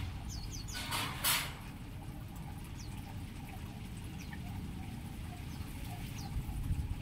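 Aviary birds giving scattered short, high chirps, with a brief noisy rustle about a second in, over a steady low rumble.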